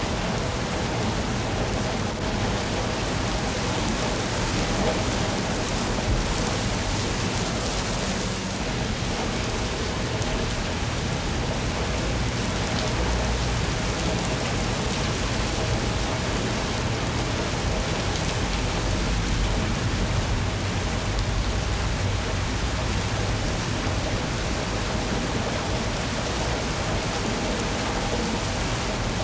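Steady rain, an even hiss, with a low rumble underneath that swells a little in the middle.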